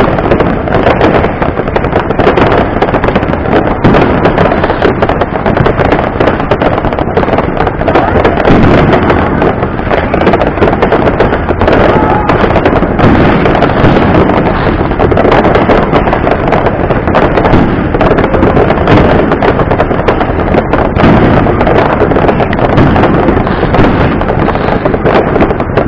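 Fireworks display: bangs and crackling following each other in quick succession, a dense unbroken din.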